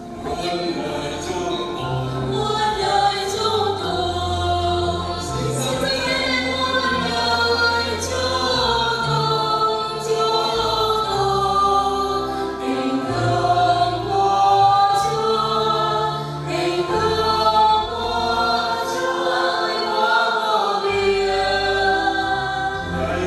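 Church choir singing a hymn over sustained low accompaniment notes, as sung at communion time in a Catholic Mass.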